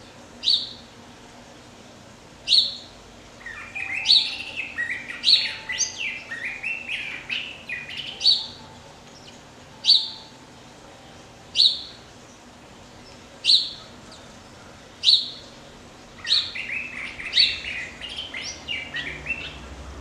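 Thrasher calling and singing. Sharp, high single whistled notes come every one to two seconds, broken by two runs of rapid, varied warbling phrases: one from about three and a half to eight seconds in, and another near the end.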